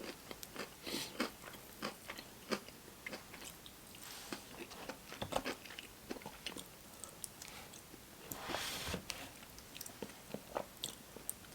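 Close-miked mouth sounds of eating: bites, wet chewing and crunching of fried food, in many short crackles. About eight and a half seconds in there is a longer rush of noise lasting about a second.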